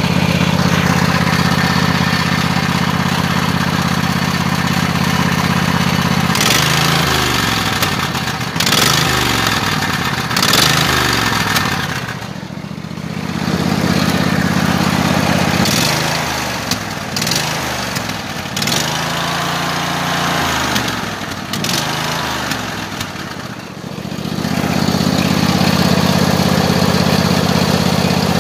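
Riding lawn mower engine running steadily, then revved up and down again and again in the middle stretch before settling back to a steady run. The owner says the engine is shooting a 3–4 inch flame from its exhaust.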